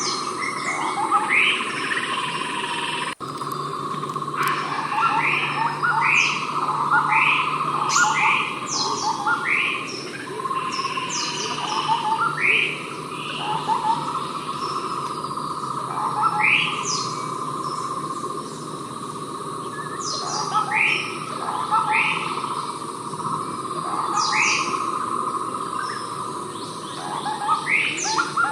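Javan scimitar babbler calling over and over in short, quick upward-sweeping notes, one every second or so. A steady drone of insects runs underneath.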